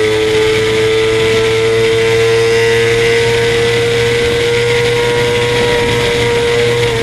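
Suzuki GSX-R 600's inline-four engine pulling at high revs at speed down a straight: one steady high-pitched note that creeps slightly higher, over loud wind rush on the microphone.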